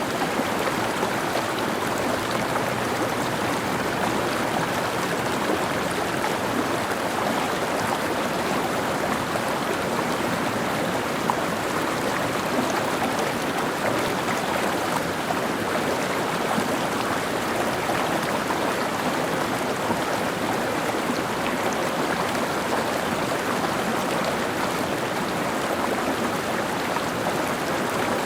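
Small mountain stream flowing over rocks: a steady babbling rush of water, unchanging in level.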